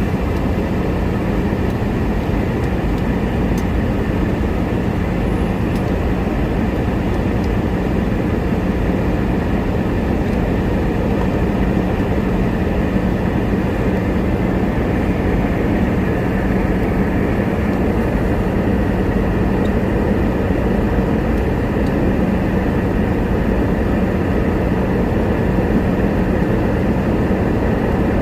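Steady engine and airflow noise inside the cabin of a Boeing 717-200 during departure, with a constant low hum under an even rush.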